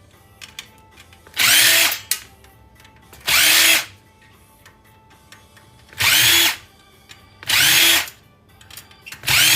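Cordless drill/driver run in five short bursts, each spinning up and back down, as screws are driven out of a stereo receiver's casing. Small handling clicks come between the bursts.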